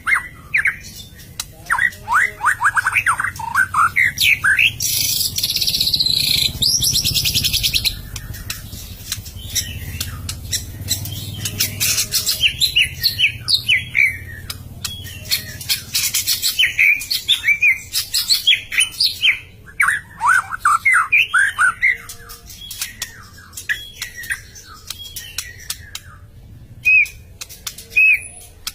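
White-rumped shama singing loudly: rapid runs of clear whistled notes and pitch sweeps, broken about five seconds in by a harsh rattling chatter lasting about three seconds, with sparser notes toward the end.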